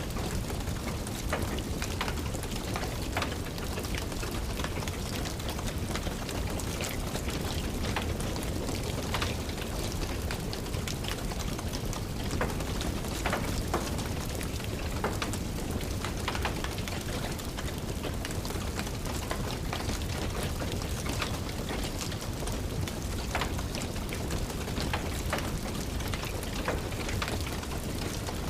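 Steady rain falling, with irregular sharp crackles and pops from a wood fire burning in a fireplace.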